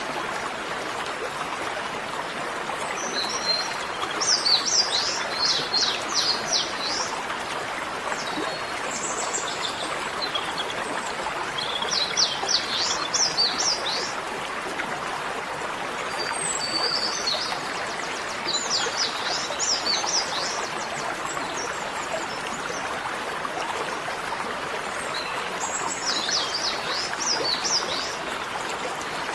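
A small songbird singing in repeated bouts of rapid high notes every few seconds, over a steady rushing background noise.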